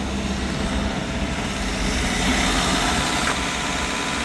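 Renault Mégane's 1.5 dCi four-cylinder diesel engine running steadily at a raised speed of about 2000 rpm during a forced regeneration of its diesel particulate filter, which heats the filter to burn off built-up soot. A faint click sounds a little after three seconds in.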